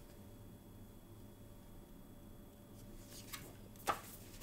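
Quiet room tone with a faint steady hum, then a few soft paper rustles near the end as a picture-book page is turned.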